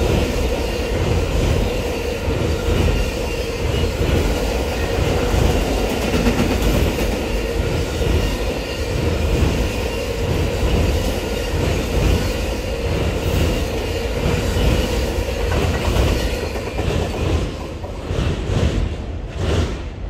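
Railroad cars rolling past at track side, wheels clacking rhythmically over the rail joints with a steady squeal from the wheels. The sound fades in the last couple of seconds as the train moves off.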